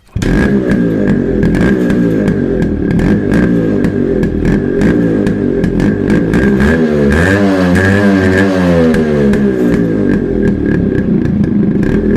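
Yamaha RX135's single-cylinder two-stroke engine running, revved up and down several times about halfway through before settling back.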